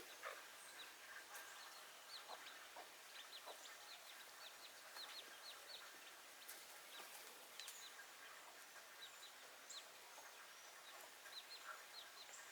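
Backyard chickens calling faintly: many short, high, falling chirps in quick runs, with a few lower clucks.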